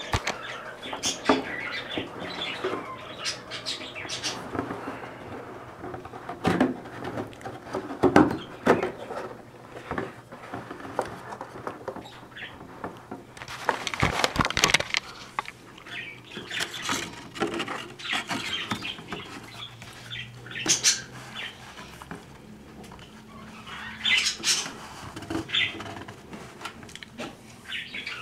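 Cockatiel scrabbling and scratching about inside a cardboard pet-store carrier box: irregular scuffles and clicks of claws on cardboard.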